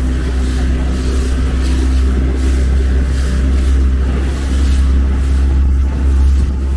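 A steady low engine-like rumble with a constant hum.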